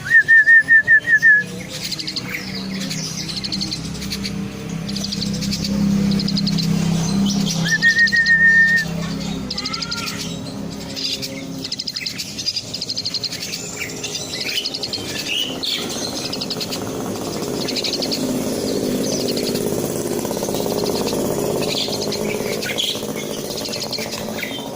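Albino jalak suren (Asian pied starling) calling. There are two loud bursts of rapid repeated notes, one at the start and one about eight seconds in, over steady higher chirping and trills from birds.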